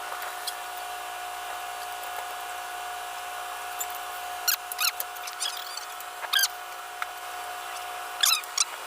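Steady hum of a boat's engine running at a constant speed. Several short, high squeaks cut in from about halfway through, loudest near the end.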